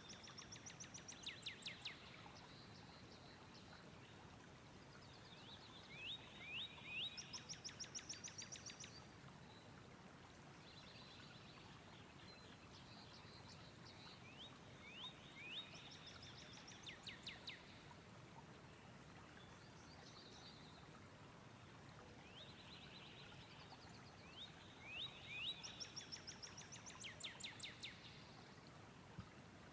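A songbird singing a repeated song: a few quick downward-sweeping notes followed by a rapid high trill. It comes three times, several seconds apart, over a faint steady hiss.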